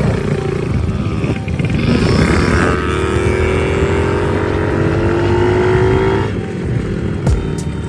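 Small dirt bike engine running under throttle, its pitch climbing slowly for about three seconds mid-way, then falling away as the throttle is let off.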